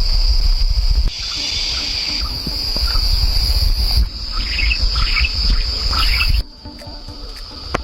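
Insects trilling steadily at a high pitch, with a few bird chirps in the middle and a low rumble underneath that drops away abruptly near the end.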